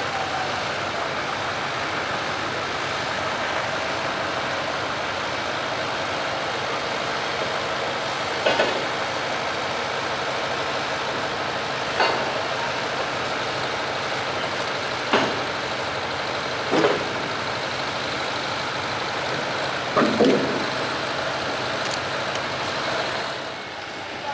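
Steady engine noise, with five or six short, sharp sounds rising out of it at intervals of a few seconds.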